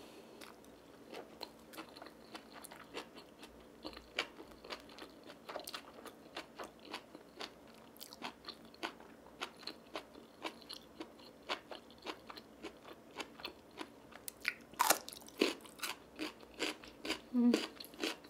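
Close-miked chewing of spicy stir-fried instant noodles and side dishes: soft crunches and wet mouth clicks a few times a second, with a louder burst about 15 s in.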